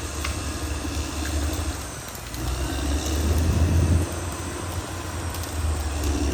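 Caterpillar D6R XL bulldozer's diesel engine working with a deep, steady rumble that swells louder about three to four seconds in.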